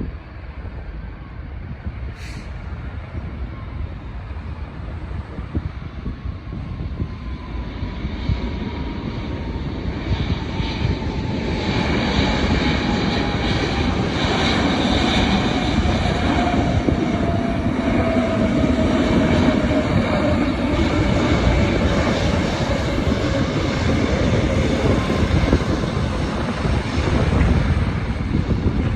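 Arriving jet airliner's engines growing louder as it approaches and passes, their whine falling slowly in pitch, with wind rumbling on the microphone.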